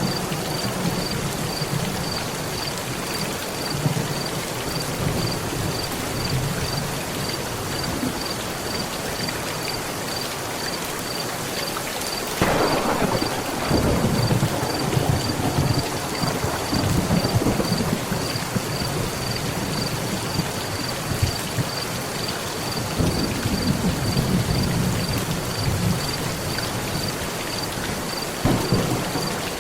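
Steady heavy rain with thunder: a sharp crack about halfway through that rolls into a long low rumble, more rumbling later, and another crack near the end.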